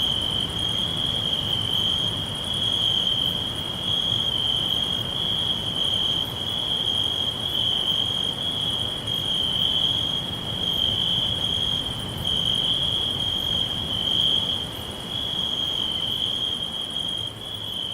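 Crickets chirping continuously in a steady high-pitched trill, over a low rumble of background noise.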